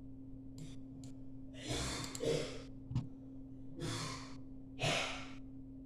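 A man breathing audibly close to the microphone between phrases: three breaths or sighs about two, four and five seconds in, with a small click near three seconds, over a steady low hum.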